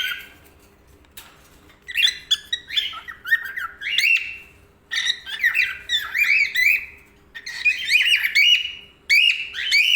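Six-month-old male cockatiel chirping and whistling in bouts of quick rising and falling notes, with a pause of about a second and a half near the start.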